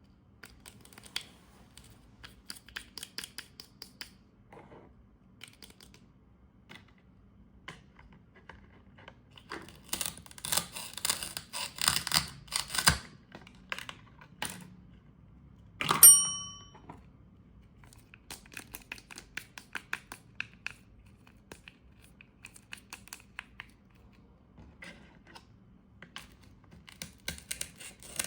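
Velcro-joined plastic toy fruit being cut apart with a toy knife: short crackly Velcro rips and small plastic clicks, with a dense run of tearing about ten seconds in. The loudest sound is one sharp plastic clack about sixteen seconds in, ringing briefly.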